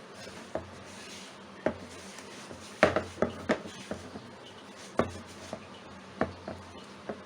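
Bread dough being kneaded by hand in a bowl: irregular knocks and taps of the dough and hands against the bowl, the loudest about three seconds in.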